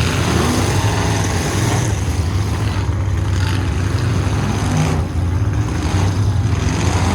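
Full-size pickup truck engines running and revving in a demolition derby heat, a loud, steady engine noise with occasional rises in pitch.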